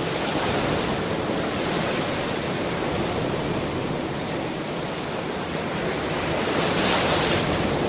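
Ocean surf washing steadily, with a wave surging louder near the end.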